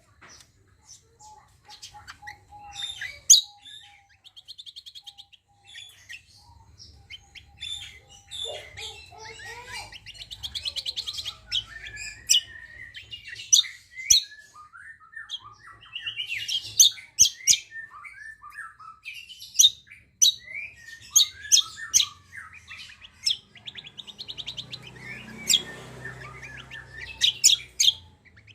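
Kecial and cucak kombo birdsong: a busy run of sharp high chirps, sliding whistles and rapid trills, the trills coming back every few seconds.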